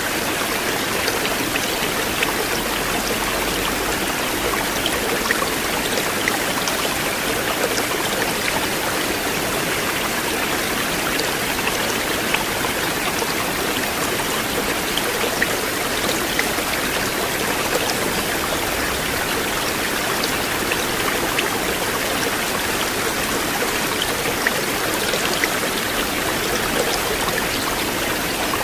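River water flowing steadily, a continuous rushing with scattered small splashes and drips.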